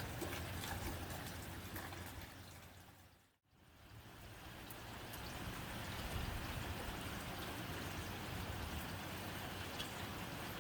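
Rain on a tin roof: a steady hiss of rain with scattered sharp drop ticks. About three seconds in it fades briefly to silence, then fades back up to the same steady rain.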